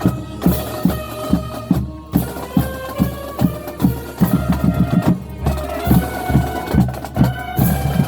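Marching band playing: wind and brass instruments hold sustained chords over a steady beat of drums.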